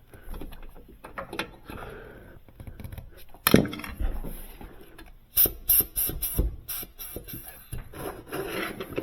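Scattered knocks and clicks of parts and tools being handled while working on a refrigerator door's lower hinge, with one sharp knock about three and a half seconds in and a quick run of clicks a couple of seconds later.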